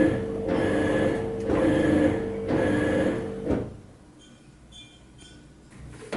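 Top-loading washing machine running, its motor humming while the drum or pulsator churns in pulses about once a second. It stops abruptly about three and a half seconds in. A faint click follows near the end.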